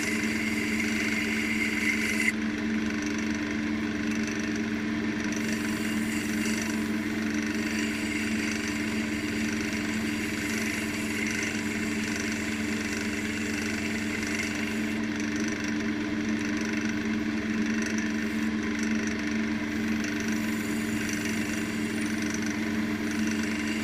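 Wood lathe running steadily, its motor giving a constant hum over a hiss from the spinning work.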